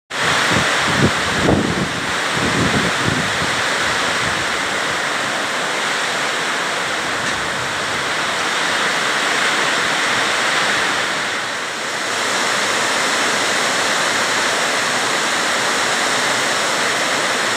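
Heavy rain pouring down steadily, with gusts of wind buffeting the microphone in the first few seconds.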